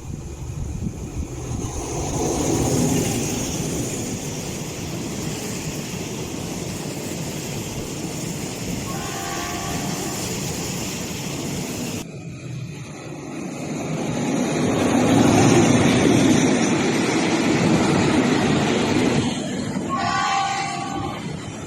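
Diesel train running past with a loud rumble, its horn giving a short multi-tone blast about nine seconds in and again near the end. About twelve seconds in, the sound changes abruptly to a second passing train.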